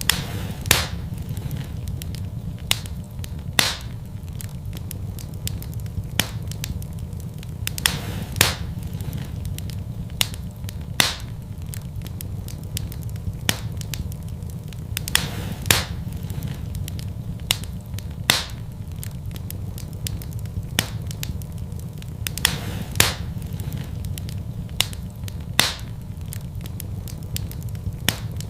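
Wood fire burning in a fireplace, a steady low rumble of flames with sharp crackles and pops from the logs, a few a second with louder snaps now and then.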